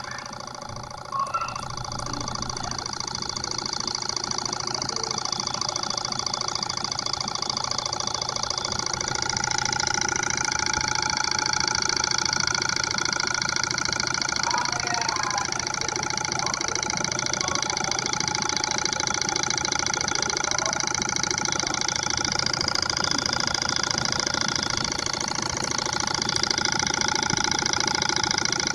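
Two small model Stirling engines running side by side: a steady mechanical whir over a fast, even clatter, getting louder over the first ten seconds or so.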